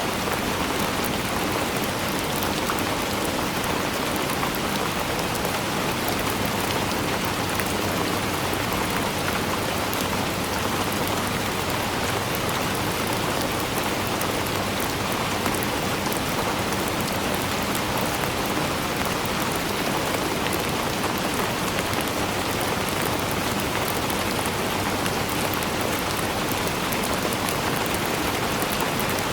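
Steady rain falling, an even hiss of many drops with fine patters on a surface.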